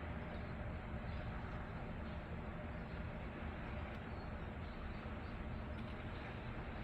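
Steady outdoor ambient noise: an even, low rush with no distinct events.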